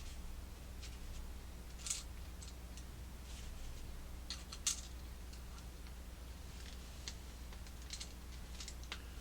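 Small clock-mechanism parts being handled and fitted over the shaft: scattered light clicks and scrapes, with two sharper clicks about two seconds and four and a half seconds in. A steady low hum runs underneath.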